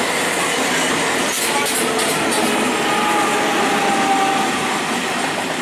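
Passenger train running past close by: a steady loud rumble and rush of the coaches over the rails, with faint thin squealing tones above it.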